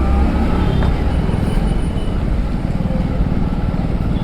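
Suzuki Hayabusa motorcycle moving slowly through heavy traffic: a steady low rumble of engine and wind on the rider's camera, with other traffic around.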